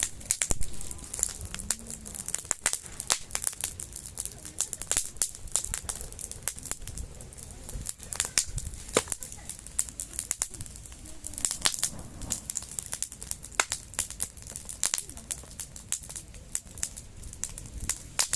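Wood fire crackling: a steady stream of sharp snaps and pops of varying loudness over a low hiss.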